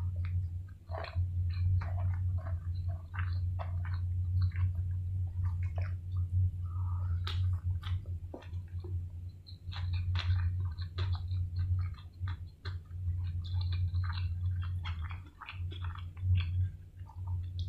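Close-up mouth sounds of a person eating rice and sauce-coated crispy fried chicken by hand: chewing with many short, irregular wet clicks and smacks. A steady low hum runs underneath.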